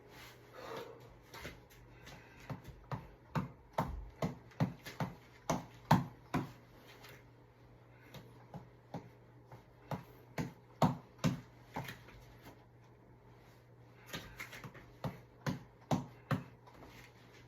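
Tap ball (a reflex ball on an elastic cord) being punched, making runs of quick, sharp hits at about two or three a second. Each run breaks off after a few seconds and starts again, twice.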